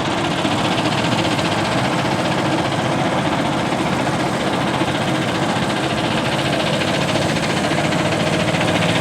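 Garden tractor engine running steadily with a rapid, even firing beat.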